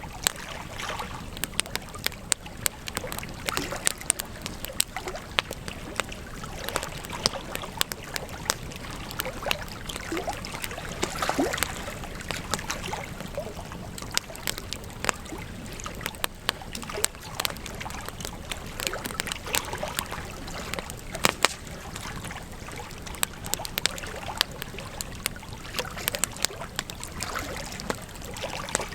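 Campfire burning: wood crackling and popping in irregular sharp snaps over a steady rushing hiss, with a short rising whistle about eleven seconds in.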